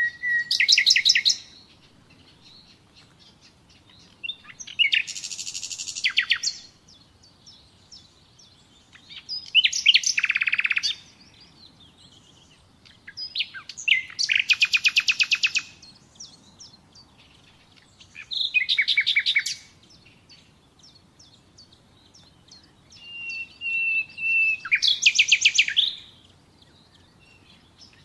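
Nightingale singing: six separate phrases of fast repeated notes, a few seconds apart. Near the end one phrase opens with a long steady whistle.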